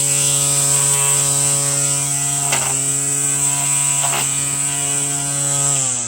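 Battery-powered string trimmer's electric motor running steadily at speed with a high whine, with two brief knocks as the line strikes something. It winds down near the end as the trigger is released.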